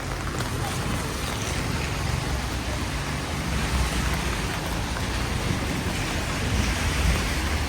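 Steady rain falling, a continuous even hiss, over a low rumble that swells slightly twice.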